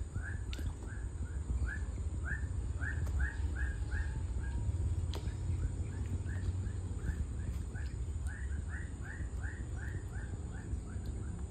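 A bird calling in runs of short rising chirps, about three a second, over a steady low rumble.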